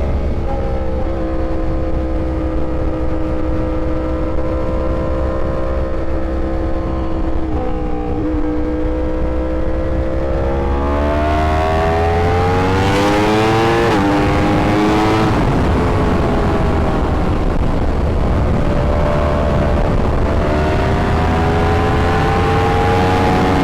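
Yamaha YZF-R1 inline-four sportbike engine under way: it holds a steady pitch, then revs up, drops sharply at a gear change partway through, revs up again, and climbs once more near the end.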